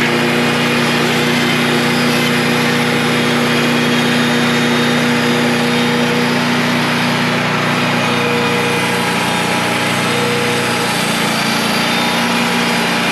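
Wood-Mizer portable band sawmill's engine running steadily at a constant speed.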